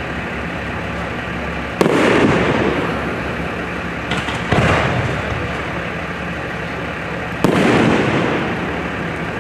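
Aerial fireworks shells bursting: three loud bangs about three seconds apart, the middle one with a smaller pop just before it, each trailing off in an echo that fades over a second or two.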